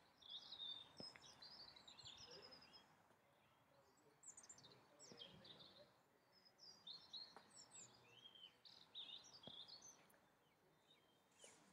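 Faint birdsong: several birds chirping and twittering in short phrases, with a couple of faint taps.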